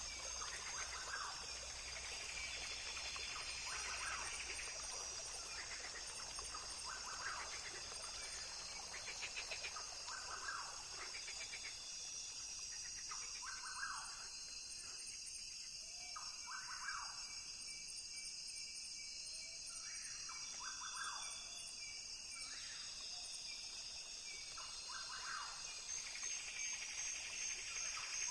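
Rainforest ambience: a steady high-pitched chorus of insects, with short animal calls repeating every couple of seconds.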